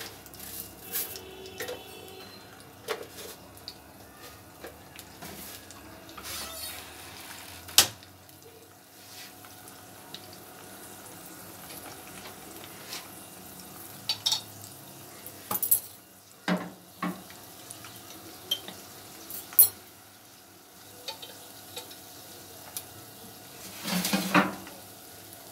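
Potato balls frying in oil in a non-stick kadai, a light steady sizzle on a low flame. Sharp clicks and clinks of a utensil against the pan as more balls go in and are turned, with a louder scraping near the end.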